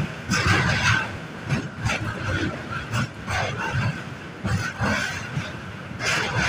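Train running on the track: a steady rumble of wheels on rails, broken by irregular clacks and thumps.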